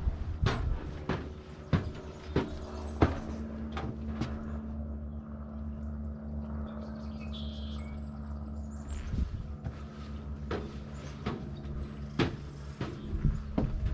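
Footsteps knocking on a wooden viewing platform, about two steps a second, stopping for several seconds in the middle and then starting again. A steady low hum runs underneath, with a few faint bird chirps.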